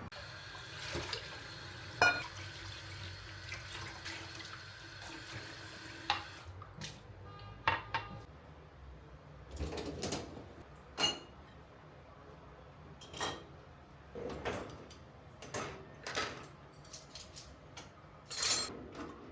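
A kitchen tap runs for about six seconds and shuts off. Then come scattered clinks and knocks of dishes and utensils being handled.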